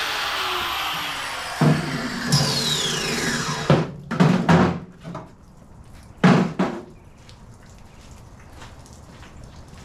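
A power tool grinding or sanding steadily, then winding down with a falling whine about three and a half seconds in. Several sharp knocks follow, then one more a couple of seconds later.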